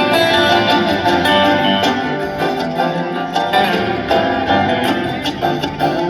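Live bluegrass band playing an instrumental passage: fast-picked acoustic guitar over banjo, fiddle and bass, without vocals.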